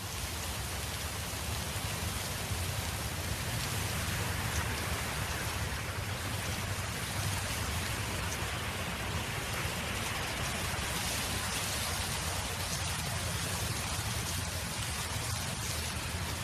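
Wind blowing across a field: a steady, dense hiss with a low rumble underneath.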